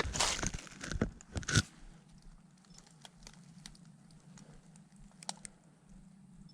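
Dry leaves and twigs crunching and crackling underfoot, loudest in the first second and a half, then fainter scattered crackles.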